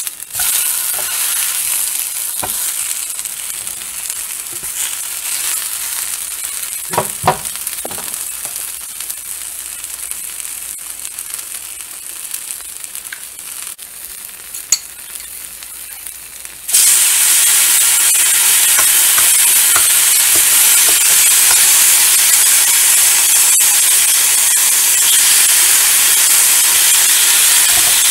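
Food frying in a nonstick skillet: a steady sizzle that jumps suddenly louder about two-thirds of the way through and stays loud. A few short knocks of a utensil on the pan about a quarter of the way in.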